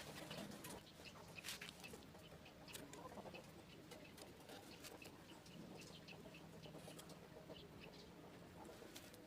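Quiet background with scattered faint clicks and ticks, and chickens clucking in the distance.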